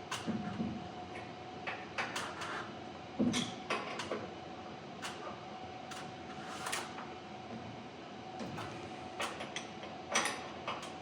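Irregular metal clicks and knocks from a wrench tightening the set screws on a garage door torsion spring's winding cone, over a faint steady hum.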